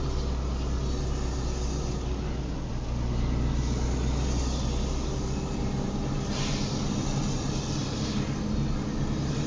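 Car driving in the rain, heard from inside the cabin: a steady low engine and road rumble under a hiss of rain and wet tyres, the hiss swelling about six seconds in.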